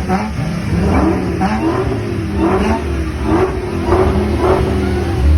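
Car engines revving in a rapid series of short blips, the pitch rising on each one, over a steady engine drone.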